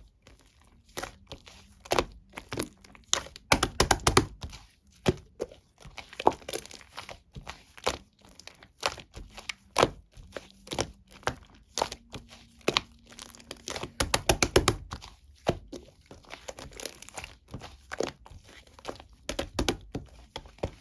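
Hands squishing and stretching a mixed slime, making sticky popping and crackling clicks, with two quick runs of many pops in a row.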